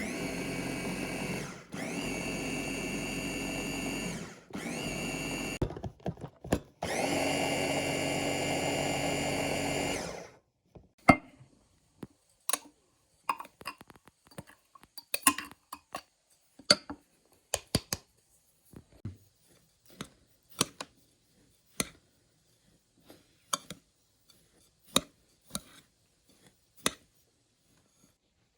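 Electric blender motor run in four bursts of a few seconds each, its pitch climbing briefly as it spins up each time, the last burst the longest. After that comes a string of irregular sharp knocks and clicks.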